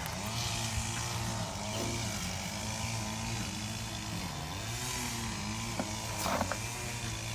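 An engine running in the background, its pitch dipping and rising several times.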